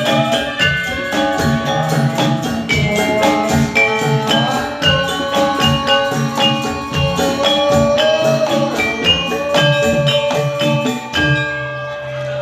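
Javanese gamelan music for jathilan: bronze metallophones struck in a quick, even rhythm over drums, with a long held melody note that bends in pitch. The struck instruments stop about a second before the end, leaving the held note.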